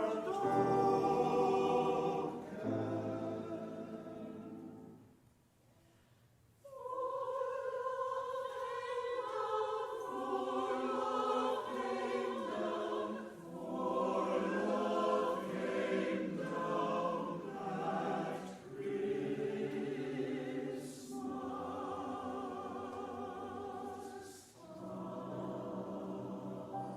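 Church chancel choir singing a Christmas choral piece, with a brief near-silent pause about five seconds in before the voices come back in.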